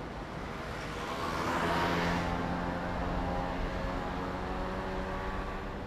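Railway train noise: a rushing swell builds about a second in and peaks around two seconds, then gives way to a steady hum made of several tones.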